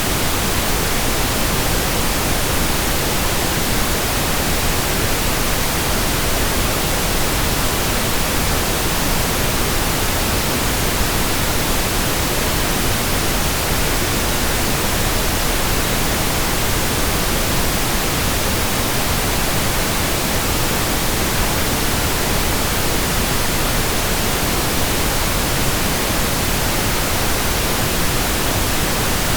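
Steady synthetic pink noise: a constant, even hiss with no changes or events.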